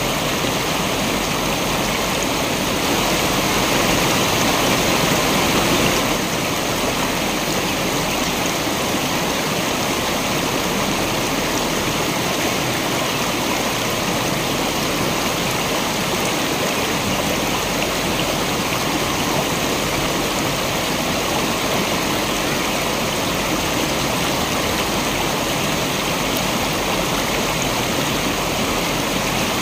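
Waterfall and stream water rushing in a steady, full roar, a little louder for a few seconds near the start.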